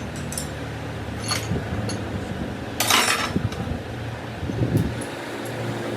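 Workshop sounds: scattered metal tool clinks over a steady machine hum, with one short, loud hiss about three seconds in.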